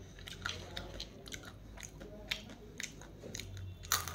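Close-up crunchy chewing and biting of food, a run of irregular sharp crunches with a louder crunch near the end.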